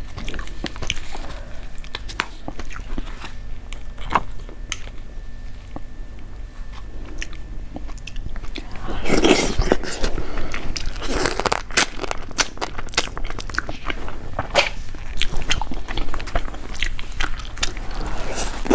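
Close-miked eating sounds: a person biting and chewing, with crunching and wet clicks, growing louder and busier about halfway through.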